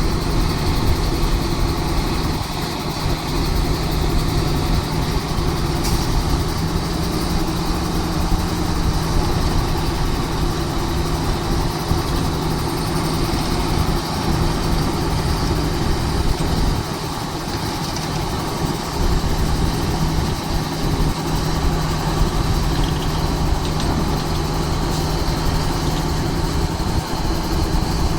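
A large engine runs steadily with a constant low hum.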